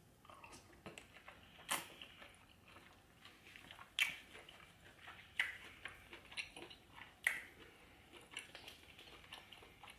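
A person eating seafood boil: quiet wet chewing with sharp mouth smacks, four louder smacks spread through.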